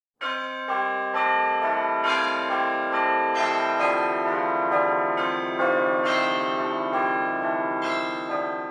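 A tune played on bell-like chimes: a new note struck about every half second, each ringing on and overlapping the others, starting to fade near the end.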